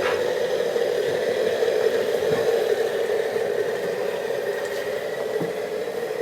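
A steady, unbroken engine-like drone from a sound effect switched on for the model train, with a faint high steady tone above it.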